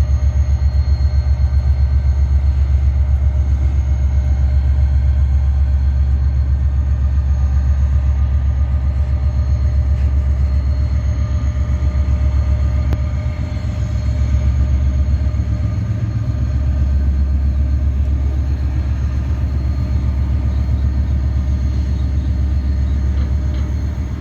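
Freight train running close by, its diesel locomotive giving a loud, steady low rumble with a fast, even throb. The rumble eases briefly a little past halfway.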